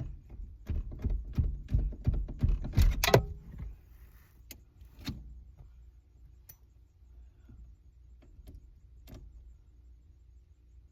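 Rapid metallic clicking and rattling for about three seconds, then a few single clicks: metal parts and tools worked by hand at a car's ignition and steering column.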